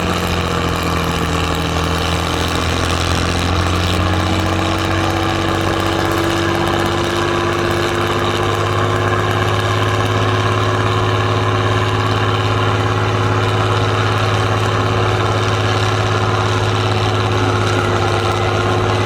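Heavy trial truck's engine running steadily, its pitch creeping up slightly over the first few seconds and then holding.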